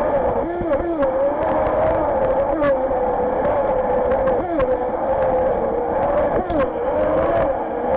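Radio-control jet boat's motor and jet drive running with a steady whine that wavers up and down in pitch, dipping briefly several times, over a constant rush of water. Short knocks and clicks come now and then as the hull hits the water.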